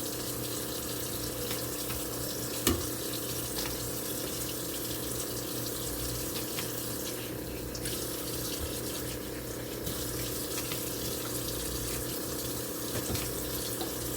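Kitchen tap running steadily into a sink, with one sharp knock about three seconds in.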